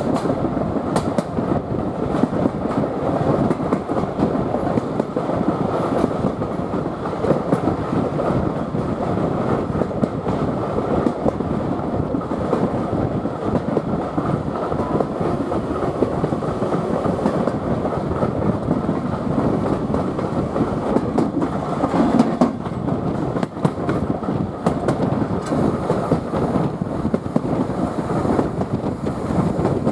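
Steam-hauled passenger train running steadily along the line: the even noise of its wheels on the track.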